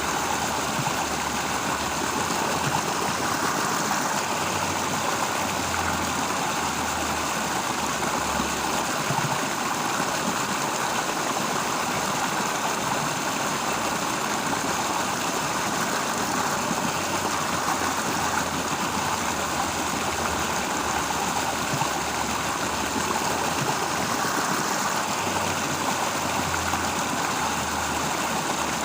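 Steady, even rush of flowing water, with a faint low rumble that comes and goes.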